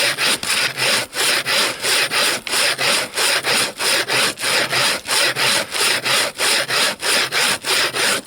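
Bow saw cutting through a frozen log with quick, even back-and-forth strokes, about three or four a second. The thin blade runs freely without binding in the cut.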